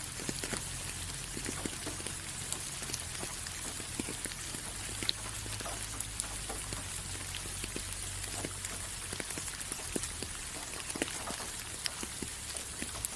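Steady rainfall, a constant hiss with many separate drops ticking and pattering on a surface.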